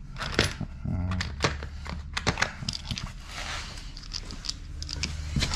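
Irregular small clicks, taps and rustling as deadbolt lock hardware is handled and fitted to a steel door.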